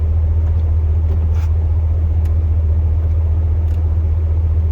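Steady low drone of a 2002 Chevrolet Silverado's 8.1-litre big-block V8, heard inside the truck's cab.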